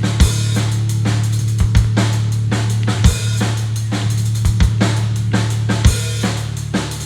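Live rock drum kit playing a sparse beat of kick drum hits and cymbal crashes over a steady low drone.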